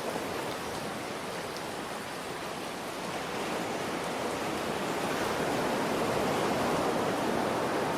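Rain falling steadily with ocean surf behind it, an even rushing hiss. A wave swells up about halfway through and stays louder to the end.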